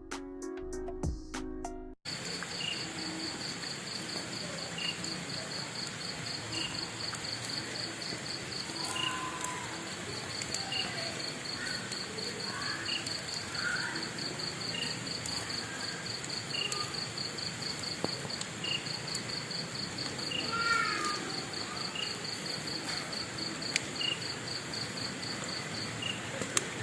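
Music for the first two seconds. Then insects trill steadily and rapidly, with a short chirp about every two seconds, a few brief gliding calls around the middle, and a few sharp clicks.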